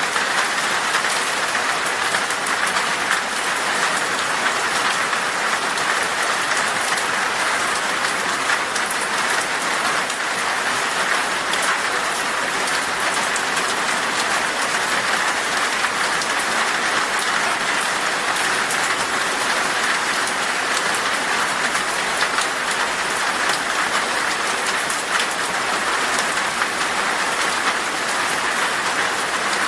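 Heavy rain falling steadily on glass: a dense, even hiss with many fine ticks of single drops striking.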